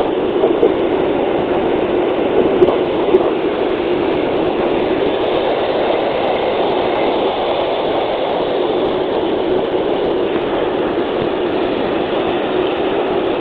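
Airbus A320 jet airliner noise: a steady, even roar of engines and airflow, with a couple of faint knocks in the first few seconds.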